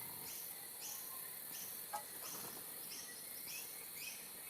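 Insects chirping in a steady rhythm, short high-pitched chirps about twice a second.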